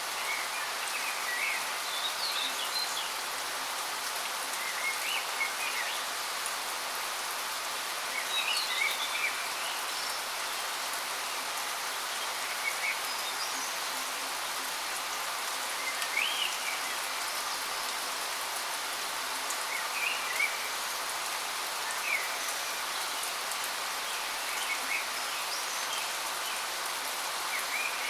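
Steady rush of falling water from a waterfall, with short bird chirps coming every couple of seconds over it.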